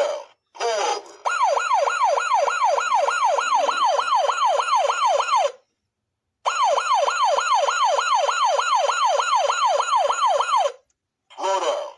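Funrise 1994 Chevy Caprice 9C1 toy police car's electronic siren playing through its small speaker: a fast yelp sweeping in pitch about four to five times a second, in two runs of about four seconds with a short break between.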